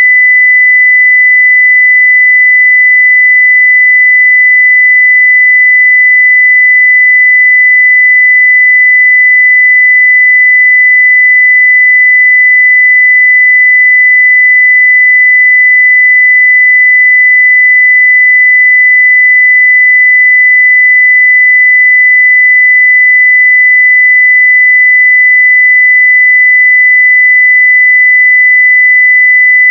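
A pure 2 kHz sine-wave test tone at full scale, one steady unbroken pitch.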